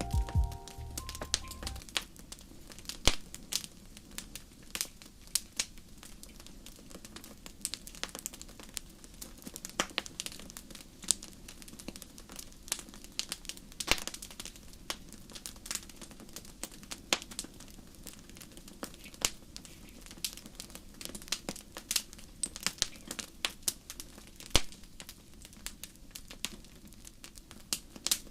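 Small campfire crackling, with irregular sharp pops and snaps.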